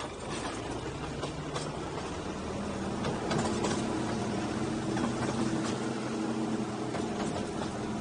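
Narrow-gauge tourist train running along the track, heard from an open passenger car: a steady engine drone with some short sharp clicks from the wheels and running gear.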